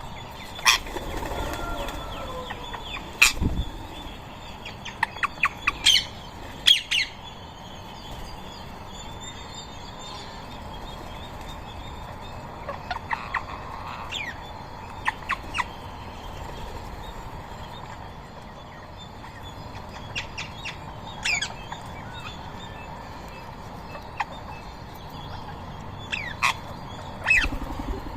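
Rose-ringed parrots giving short, sharp squawks, scattered singly and in quick clusters throughout.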